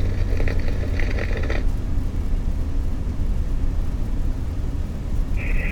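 Steady low rumble of a car driving on the road. A police scanner's channel noise cuts off about a second and a half in, and a short burst of high-pitched hiss comes from the scanner near the end.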